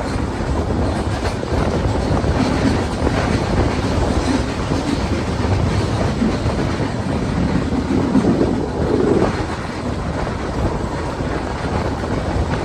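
A train running along the track: steady noise of wheels on rails and moving carriages.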